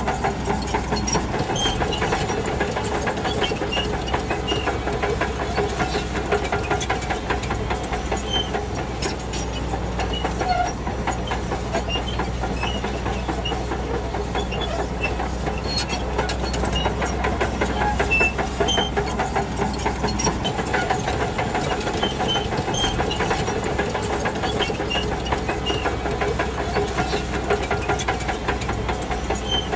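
Shantui DH17C2 crawler bulldozer pushing soil: the diesel engine runs steadily under a continuous clanking rattle of steel tracks, with scattered short high squeaks.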